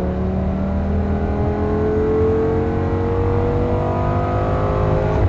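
Lamborghini Gallardo's V10 engine heard from inside the cabin, accelerating hard under throttle, its pitch rising smoothly and steadily as it pulls through one gear.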